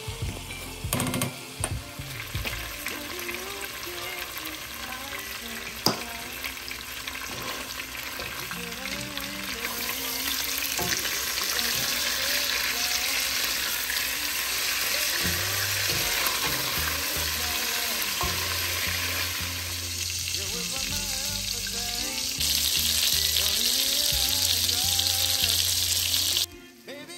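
Ground-turkey patties sizzling as they fry in hot oil in a nonstick pot, with a few sharp clicks of a spatula against the pan early on. The sizzle grows louder about ten seconds in and again near the end, then drops away suddenly.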